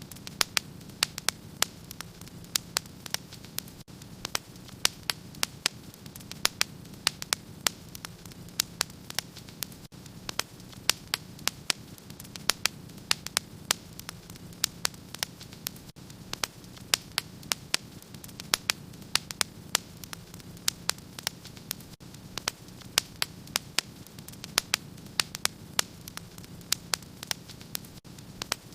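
Wood fire crackling in a fireplace: many sharp pops and snaps, several a second at an irregular pace, over a steady low rumble.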